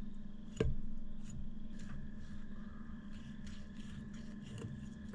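Fillet knife cutting along a fish's back and through its bones: a run of small sharp clicks, the loudest about half a second in and a quicker cluster near the end, over a steady low hum.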